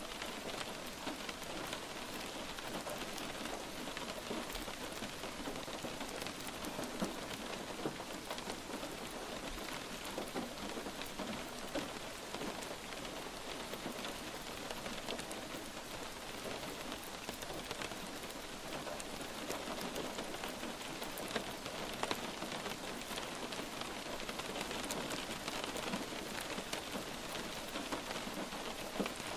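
Steady light rain falling on a hard surface: a dense, even patter of drops with scattered sharper single drop ticks.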